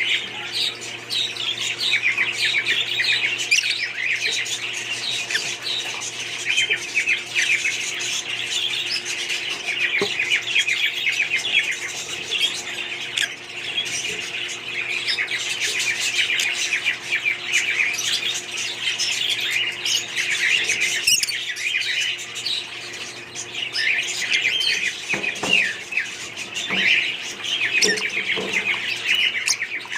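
A flock of budgerigars chattering continuously, many short rapid chirps and squawks overlapping, with a faint steady hum underneath.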